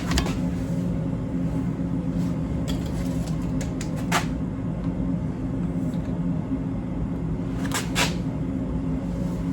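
Steady low machine hum, with a few light clicks and knocks from plastic containers being handled while liquid is measured out. The sharpest knock comes about four seconds in and a close pair near eight seconds.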